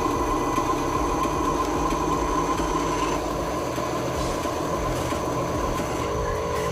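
Electric motor and plastic gearbox of a radio-controlled construction model whining steadily under load, with a rough grinding and rasping underneath.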